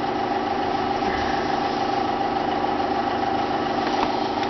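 Steady mechanical hum with a constant tone, unchanging throughout.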